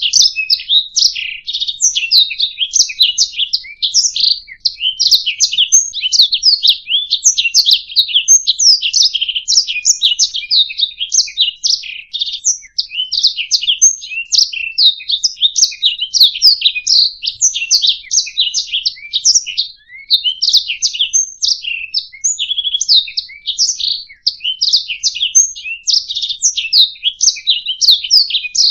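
Domestic canary singing a long, unbroken song of rapid trills, chirps and quick rising and falling whistles, with no pauses.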